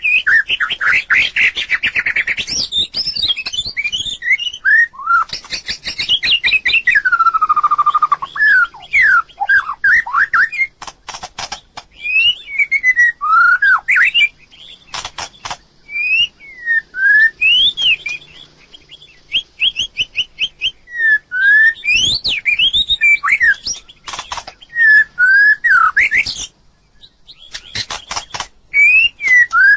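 White-rumped shama singing: a long, varied song of loud, clear whistled phrases that swoop up and down, mixed with quick runs of rattling, clicking notes.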